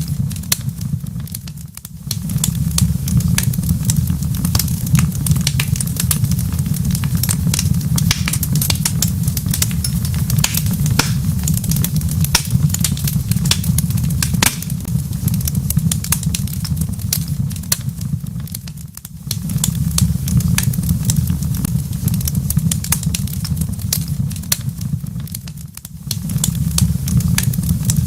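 Wood fire crackling in a fireplace: a steady low rumble of burning with many sharp pops and snaps scattered throughout. The sound briefly sinks and swells back about two seconds in, and again twice in the last third.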